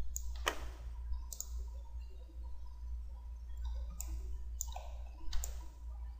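Computer mouse clicking, about five single clicks at irregular intervals, over a low steady hum.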